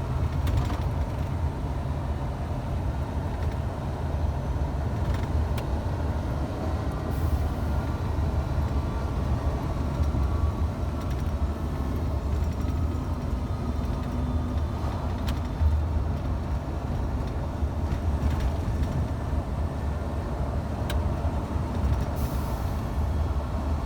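Scania truck's diesel engine and road noise heard inside the cab, a steady low drone. Two brief air hisses, about seven seconds in and near the end.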